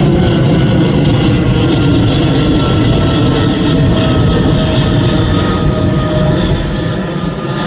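Boeing 777-300ER's twin GE90-115B turbofans at takeoff power: a loud rumble with whining tones that slowly fall in pitch as the jet passes and draws away. The sound eases slightly near the end.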